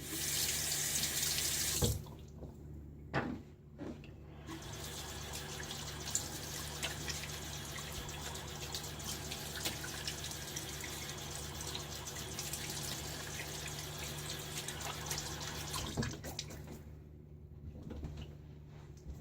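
Tap water running into a sink: a loud gush for the first two seconds, then a steadier flow with small splashes for about twelve seconds that stops a few seconds before the end.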